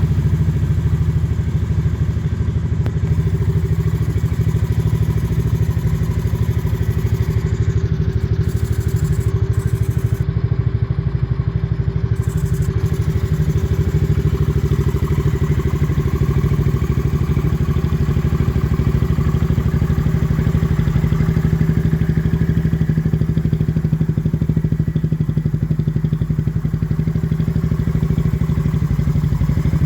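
Honda Monkey 125's single-cylinder four-stroke engine idling steadily through an aftermarket Zoom exhaust, a deep, even beat with no revving.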